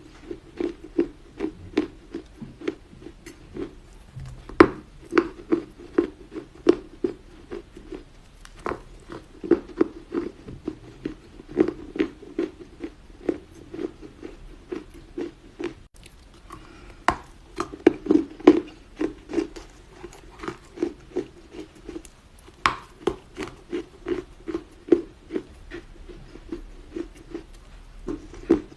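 Chinese loess clay being bitten and chewed in soft, even crunches about two a second, with a few sharper cracks and a brief lull around the middle.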